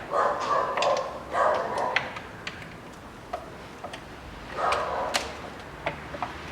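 A dog barking in short, rough bursts, three times in the first two seconds and once more near the five-second mark, with sharp metallic clicks of hand tools in between.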